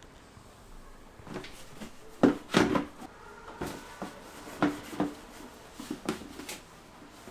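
Irregular knocks and clunks of household objects being handled, about eight in all, the loudest pair a little over two seconds in.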